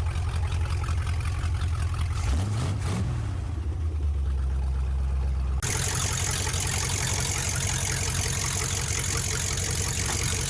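1969 Chrysler Newport's 383 V8 running at idle, with a brief rev about two seconds in. The engine sound changes abruptly about halfway through, with more hiss on top.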